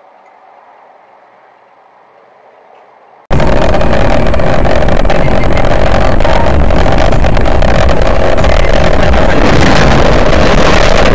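Faint vehicle hum, then about three seconds in a sudden, very loud, overloaded vehicle noise that stays steady and distorted.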